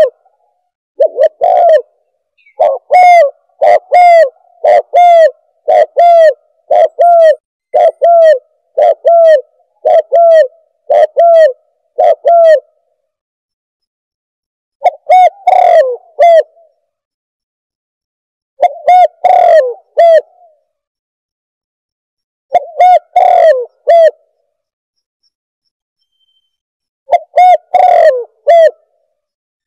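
Recorded spotted dove (tekukur) cooing, played back as a bird caller. There is a steady run of about a dozen short coos, roughly one a second, then groups of two or three coos separated by pauses of a couple of seconds, with dead silence between notes.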